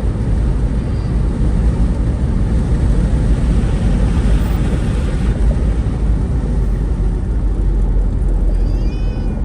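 Steady low rumble of a vehicle on the move. Near the end a short higher sound rises and falls in pitch.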